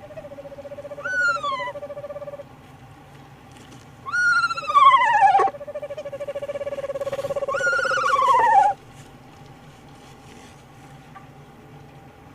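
Owls calling in a nest box during a prey delivery: a steady wavering trill runs under three loud, downward-sliding squealing calls, and the calling stops a little over two-thirds of the way through.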